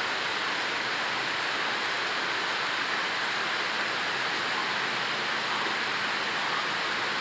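Steady rain falling, an even hiss without individual drops standing out.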